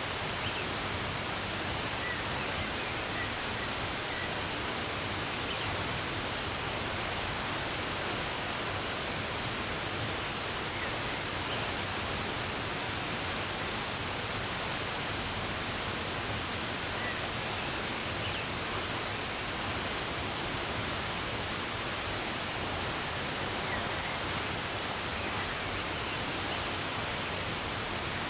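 Steady rushing of running water, with faint birds chirping here and there over it.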